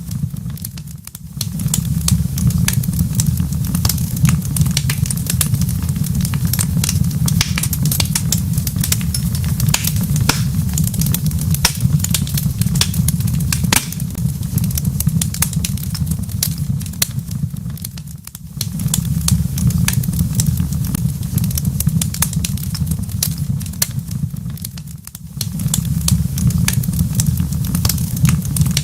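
Crackling wood fire in a fireplace: many small sharp pops and snaps scattered over a steady low rumble. The sound briefly drops away three times, about a second in, about two-thirds of the way through, and near the end.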